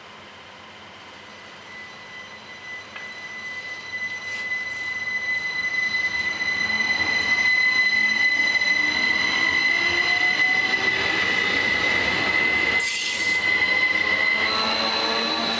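Rhaetian Railway train approaching and running past, growing louder over the first half, with a steady high-pitched squeal from its wheels that stops shortly before the end. There is a brief rush of noise near the end.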